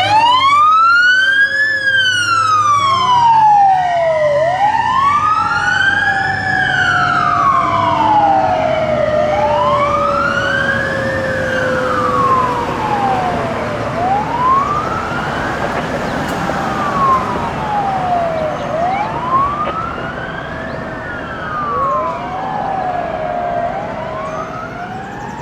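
Fire engine sirens on a code 3 response: a wail rising and falling about every five seconds, while a second siren's tone slowly falls in pitch through the first half. The sirens grow gradually quieter toward the end.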